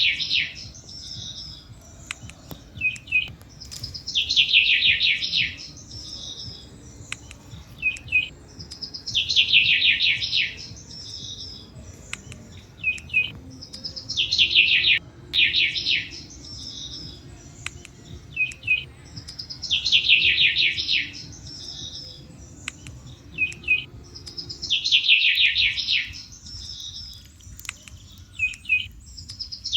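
A songbird repeats the same dense, fast trilled phrase about every five seconds, each followed by a short double chirp. Under it runs a continuous low rumble with scattered faint crackles from a campfire.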